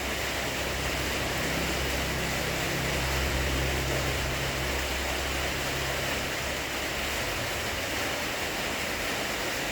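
Steady rushing noise with a low rumble underneath that dies away about seven seconds in.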